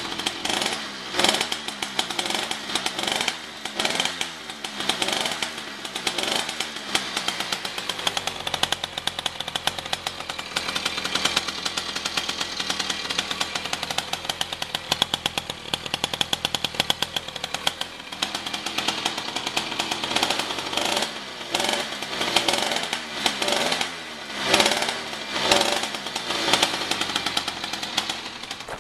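Skyhawk 66cc two-stroke motorized bicycle engine with an SBP expansion chamber exhaust, running with a rattly note that sounds a lot like a dirt bike. Its revs rise and fall again and again as the throttle is worked.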